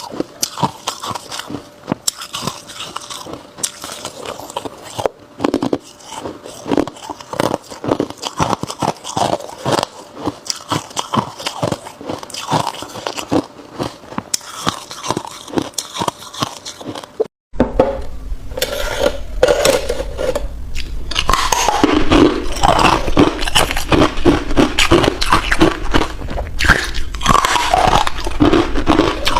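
Ice being bitten and chewed close up: dense, rapid crunching and cracking. About two-thirds of the way through it breaks off for an instant and comes back louder.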